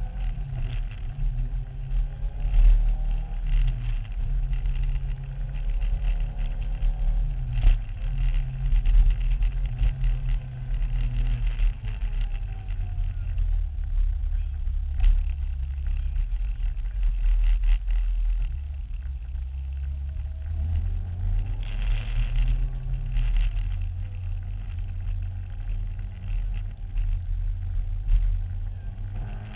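Promotive R1 Mini motorbike engine running with its revs rising and falling again and again, with scattered short knocks or gusts over it. The engine has a fault that the owner cannot identify.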